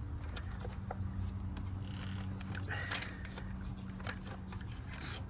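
Scattered light clicks and small knocks of hand tools working a spark plug in the back of an engine, over a steady low hum.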